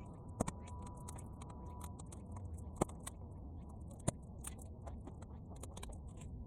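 Bonfire of half-dry weeds crackling, with many small snaps and three sharper pops, over a low steady rumble of wind.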